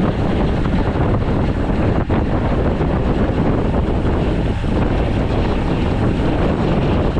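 Steady wind rushing over the microphone of a camera riding on a road bike, with no breaks.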